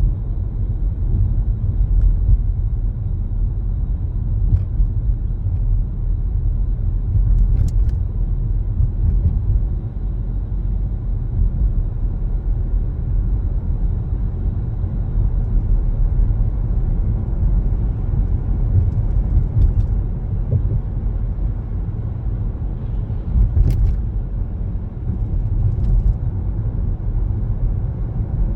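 A car driving along a road: a steady low rumble of engine and tyre noise, with a few brief clicks now and then.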